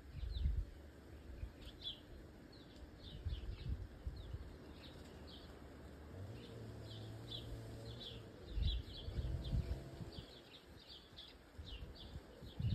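Small birds chirping in quick, repeated short notes, with dull low thumps every few seconds that are louder than the chirps.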